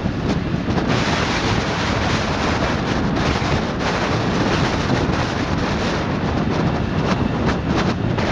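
Wind buffeting the microphone over the steady rush of a river in flood, swollen high after a typhoon.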